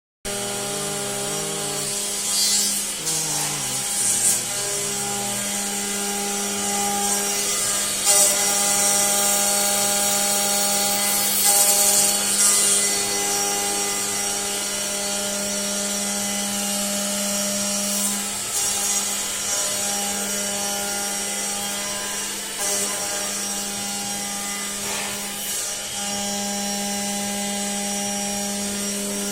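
CNC lathe running: a steady motor whine that steps in pitch over the first few seconds, with repeated rasping, hissing bursts of metal being cut.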